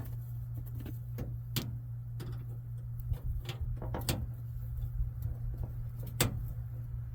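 Scattered sharp clicks and small knocks of car door latch and handle parts being handled and fitted, the strongest about six seconds in, over a steady low hum.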